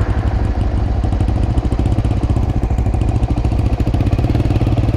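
Single-cylinder motorcycle engine running steadily, with an even pulsing beat.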